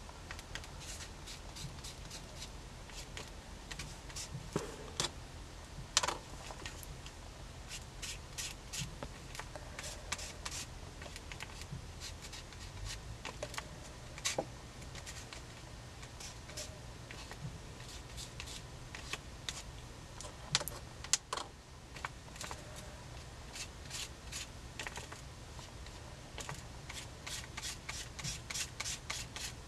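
Gold colour being rubbed onto a mixed-media craft tag: irregular light scratches and small clicks, coming quicker near the end.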